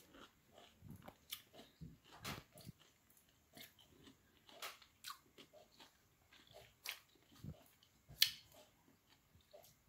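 Close mouth sounds of chewing a juicy pink grapefruit segment: irregular wet smacks and clicks, the sharpest about eight seconds in.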